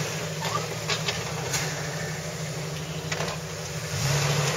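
Jeep Wrangler TJ engine running at low revs as the Jeep crawls over a dirt off-road course, a steady low hum that swells slightly about four seconds in.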